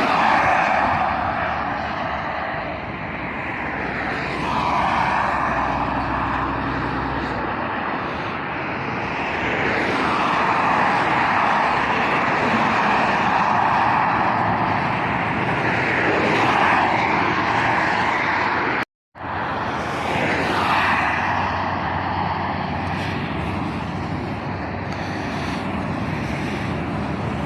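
Road traffic passing close by on a main road, tyre and engine noise swelling and fading as vehicles go past. The sound cuts out completely for a moment about 19 seconds in.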